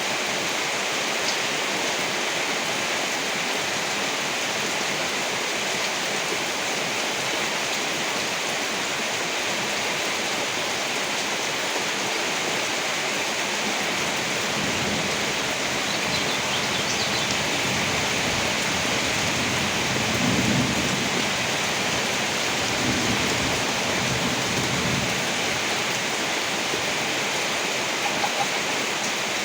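Steady heavy rain, with low rolling thunder rumbling in from about halfway through and swelling twice before fading.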